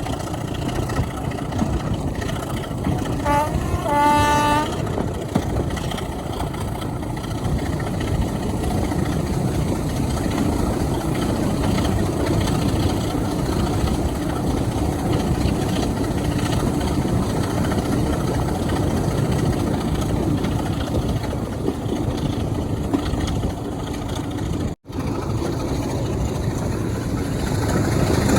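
Heritage diesel locomotive engine running steadily, with a short horn blast about three seconds in. The sound breaks off for an instant near the end.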